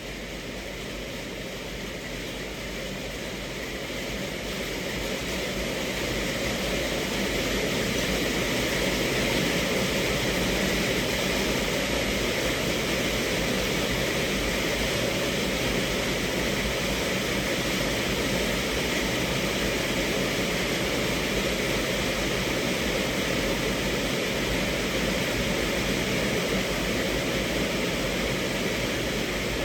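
Steady rain on a car's roof and windows, heard from inside the car, growing louder over the first several seconds and then holding steady.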